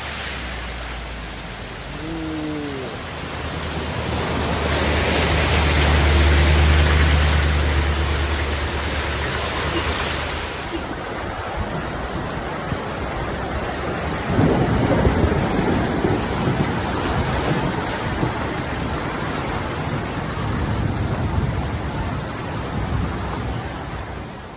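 Heavy rain pouring down with a dense, steady hiss, in several short stretches. A low steady rumble runs underneath for several seconds in the first half, and the sound turns louder and choppier after about 14 seconds.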